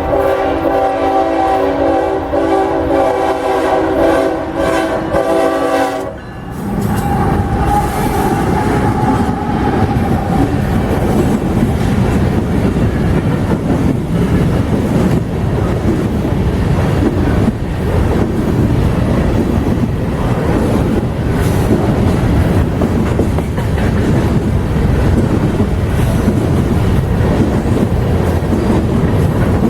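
Diesel locomotive air horn sounding a long, loud chord of several tones that cuts off about six seconds in. Then a freight train rolls past, its wheels clattering over the rail joints.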